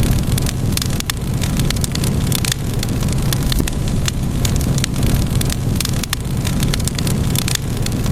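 Wood fire crackling, with many sharp irregular pops and snaps over a steady low roar of the flames.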